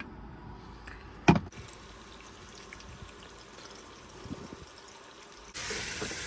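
A single sharp knock about a second in, then near the end a sudden loud sizzling starts as food hits the hot frying pan.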